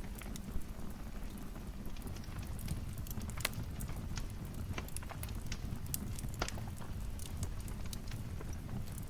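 Wood fire crackling: irregular sharp pops and snaps over a steady low rumble of the flames, with a couple of louder pops midway.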